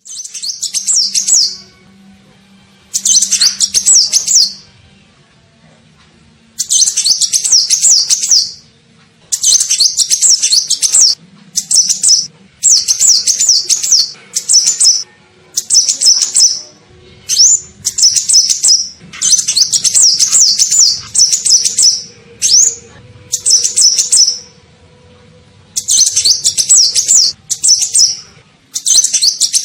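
Kolibri ninja sunbird song, played as a lure call: repeated phrases of fast, high, twittering notes, each lasting about one to two seconds, with short pauses between them.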